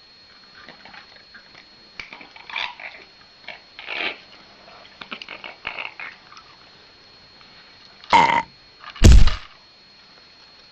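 A small bird moving about in a small room: scattered short scratching and tapping sounds, then two loud rushes of noise near the end, the second the loudest.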